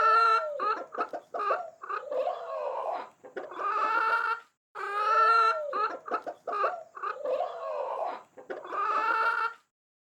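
Chicken clucking and cackling: a run of short clucks between longer drawn-out calls. The same few-second sequence plays twice in a row and stops abruptly near the end.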